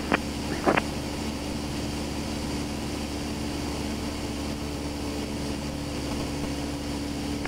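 Steady drone of a light propeller aircraft's engine heard from inside the cockpit, with a constant low hum.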